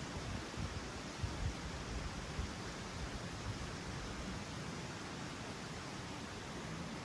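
Steady rushing outdoor noise, with wind buffeting the microphone in a low rumble.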